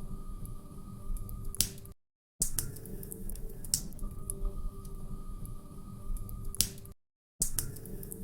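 Log fire in a fireplace crackling, with sharp pops and snaps over a low steady rumble. The sound cuts out for a moment twice, then starts over.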